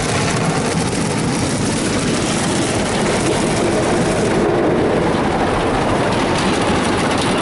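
Ryko Softgloss Maxx 5 soft-touch rollover car wash working over an SUV, heard from inside the cabin: a steady, dense rush of spray and wash material scrubbing against the body and glass. It gets a little louder about three seconds in.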